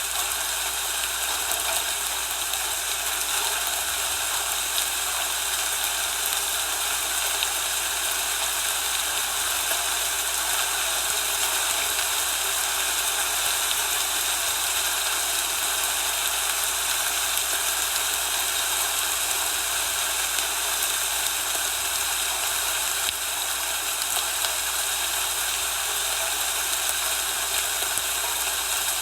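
Steady, even hiss of a falling-snow ambience with no breaks or distinct events, lightest in the bass and spread through the mid and high range.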